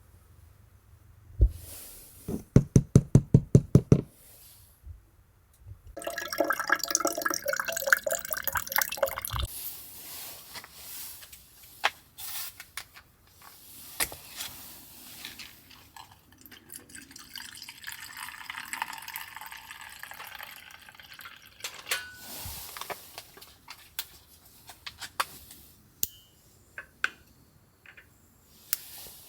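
A quick run of about nine knocks, then liquid being poured for a few seconds, followed by scattered clicks and rustling of things being handled.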